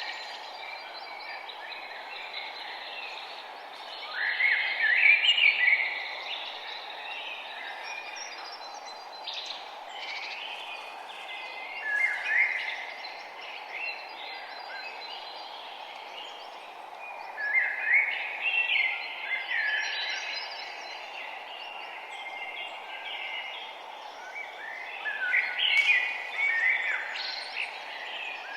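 Songbirds singing outdoors: short warbling phrases come every several seconds, with the loudest bursts about 5, 12, 18 and 26 seconds in, over a steady low background hiss.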